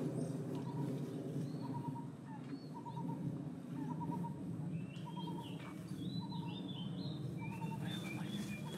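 Birds chirping in short, high, stepped calls, with a short pulsed note repeating about once a second, over a steady low background rumble.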